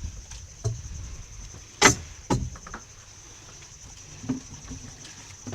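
Insects droning steadily at a high pitch, with two sharp knocks about half a second apart roughly two seconds in and a few fainter clicks.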